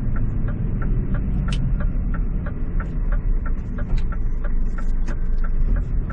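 Turn-signal indicator ticking evenly in a Scania truck cab, about three ticks a second, over the low rumble of the truck's diesel engine running.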